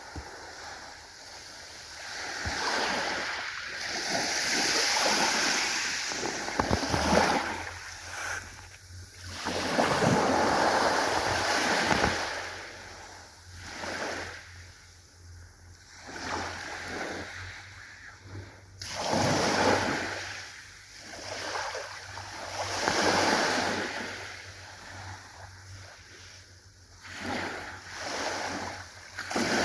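Ocean surf washing in and breaking, the noise swelling and falling away every few seconds. A faint steady low hum comes in about a quarter of the way through.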